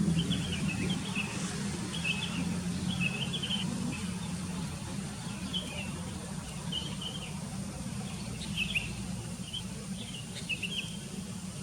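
Sooty-headed bulbuls calling: short, bubbly chirping phrases repeated about once a second, over a steady low hum.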